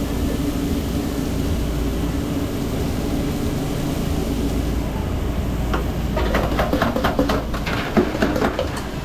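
Steady low mechanical drone of food-truck kitchen equipment. From about six seconds in, a quick run of knocks, clicks and scrapes from cooking work.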